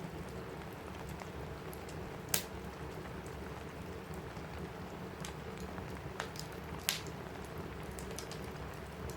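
Steady rain on a cabin roof with a fireplace crackling, and a few sharp pops from the fire. The two loudest pops come about two seconds in and again near seven seconds.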